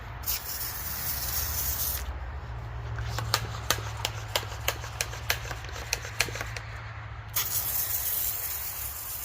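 Hand-pumped pressure sprayer hissing out two long sprays of wash solution, with a run of sharp clicks, about three a second, between them. A steady low hum runs underneath.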